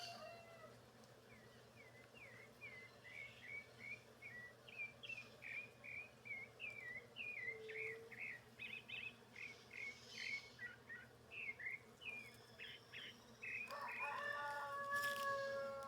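A songbird sings a long run of quick, sharp chirping notes, and near the end a rooster gives a long crow.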